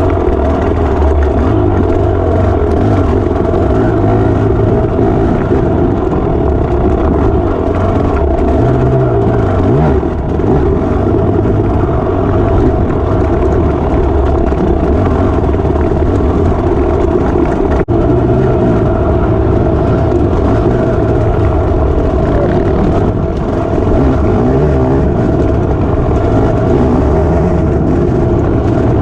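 Dirt bike engine running under way on a trail, loud and fairly steady with small swells in revs.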